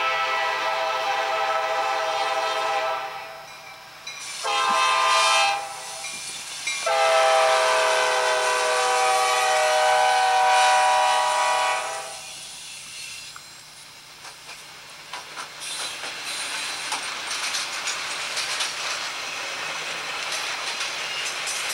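Norfolk Southern freight train led by several diesel locomotives sounding its multi-chime air horn in a long–short–long pattern, the end of a grade-crossing signal. The last long blast drops slightly in pitch as the locomotives pass. The horn is followed by the rumble and clickety-clack of freight cars rolling by, heard through a camcorder's playback speaker.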